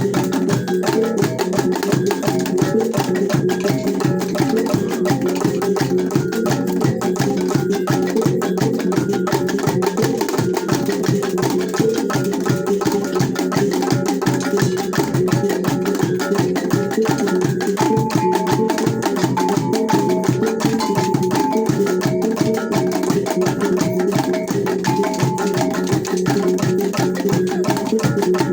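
T'boli traditional ensemble music with fast, steady struck percussion and repeated pitched notes. It plays without a break.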